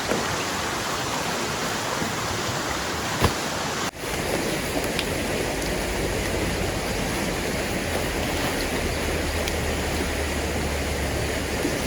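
Steady rushing noise of heavy rain and a swollen, fast-flowing river. It breaks off briefly about four seconds in and returns with more low rumble.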